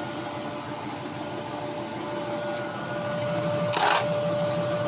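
A steady mechanical hum holding one constant tone, with a short hiss about four seconds in.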